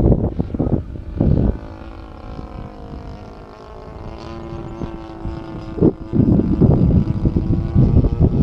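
DLE 35 single-cylinder two-stroke gas engine of a large radio-control Extra 260 aerobatic plane flying, its engine note drifting down in pitch and then holding steady. Gusts of wind buffet the microphone at the start, about a second in, and again from about six seconds on.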